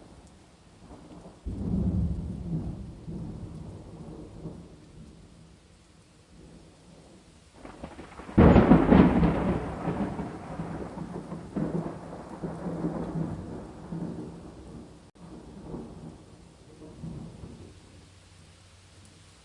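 Two thunderclaps over steady rain: one about a second and a half in, rumbling for a few seconds, and a louder one about eight seconds in whose rumble rolls on and slowly fades.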